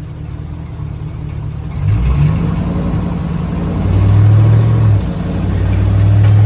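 A 2006 Chevy Silverado's 5.3-litre V8 running, its engine speed stepping up about two seconds in and rising again a couple of seconds later, dropping back briefly before climbing once more near the end.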